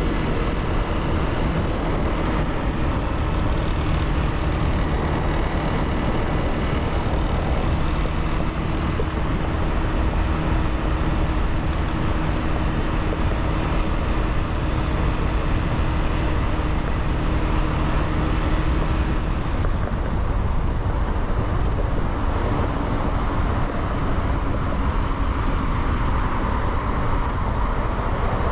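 Honda CBR300R's single-cylinder engine running steadily under way, with a dense low rush of wind and road noise. About two-thirds of the way through, the steady engine note breaks off and settles at a different pitch.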